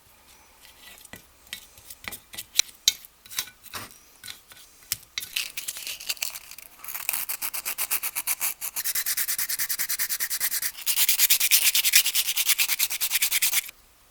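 Rubbing an abrasive by hand over the metal parts of an old plane. Scattered scratchy strokes at first, then quick, even back-and-forth strokes from about halfway, loudest near the end, stopping suddenly.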